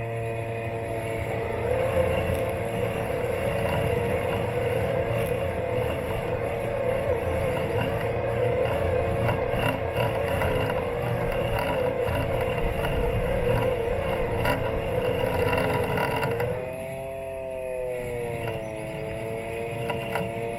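Robot lawn mower's motors running with a steady whine, and a rough hiss over it. Near the end the hiss drops away and the whine sags in pitch, then comes back up.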